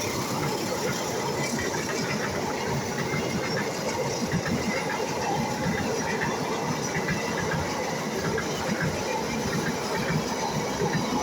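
A passenger train passing at close range: a steady rolling rumble of steel wheels on the rails, with many small scattered clicks.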